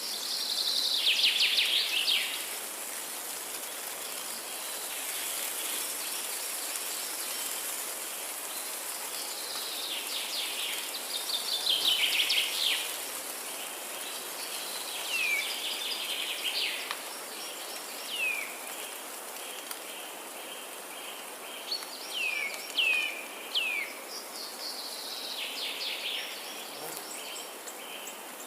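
Songbirds singing in a forest: trilled phrases of about two seconds that fall in pitch, repeated every few seconds, with short down-slurred notes between them near the middle and end. A steady high-pitched hiss runs underneath.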